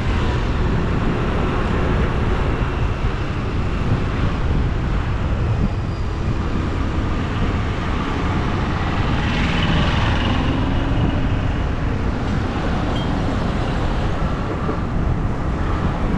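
Steady road noise and low wind rumble on the microphone of a moving bike, with a louder swell about ten seconds in, like another vehicle going past.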